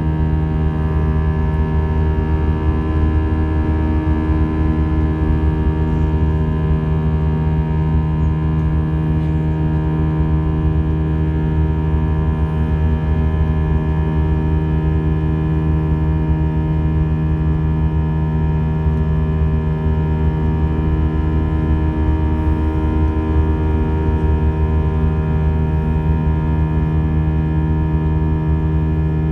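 Airbus A320 jet engines heard from inside the passenger cabin in flight: a steady drone with several constant humming tones.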